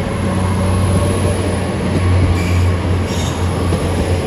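GWR Class 802 bi-mode multiple unit moving along the platform on its underfloor diesel engines: a steady low engine drone, with a couple of faint high squeals about two and three seconds in.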